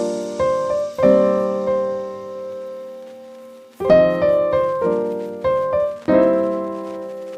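Piano music: notes and chords struck in small groups every few seconds, each left to ring and slowly die away.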